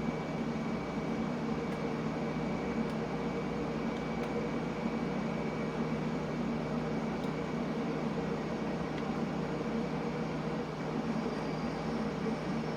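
London Underground train running steadily: a continuous rumble with a steady hum and a thin, constant high whine, and a few faint ticks.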